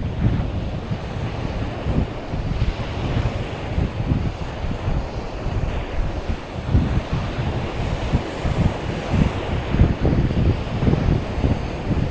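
Wind buffeting the microphone in uneven gusts, over the steady wash of surf on the beach.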